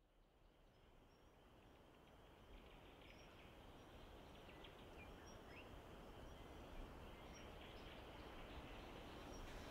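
Faint natural outdoor ambience fading in: a steady hiss of background noise with scattered small bird chirps and calls.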